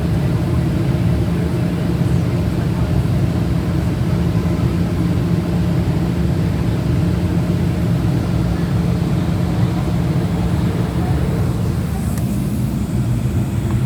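Airplane engines running steadily: a loud, even drone with a constant low hum.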